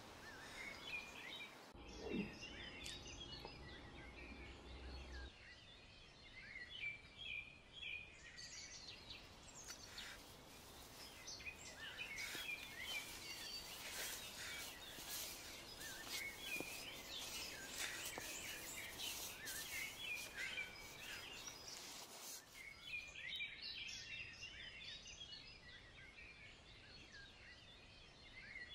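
Small birds chirping and twittering faintly throughout, with a stretch of light crackling in the middle.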